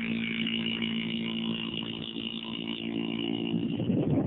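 Small dirt bike engine running at a steady, nearly constant speed, with a louder, rougher sound coming in near the end.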